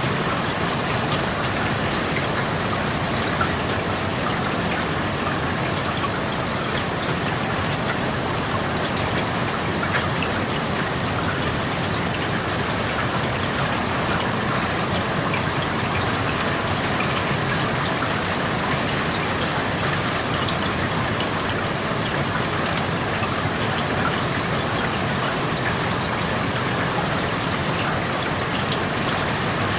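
Steady rain falling, heard through an open window, an even hiss with many small drops tapping on surfaces.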